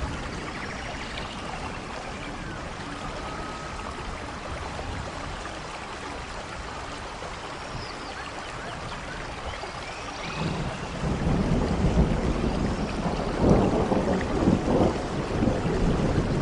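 Rainstorm: steady rain hiss with a few faint bird chirps, then about ten seconds in a louder, uneven low rumble of thunder sets in.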